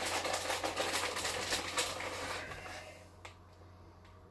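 Shredded cheese being added to a bowl of mac and cheese: a dense crackling rustle that fades away after about two and a half seconds, leaving a low steady hum and a couple of faint clicks.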